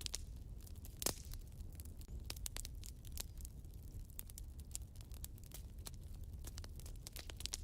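Wood fire crackling in a fireplace: frequent irregular sharp pops and snaps, with one louder pop about a second in.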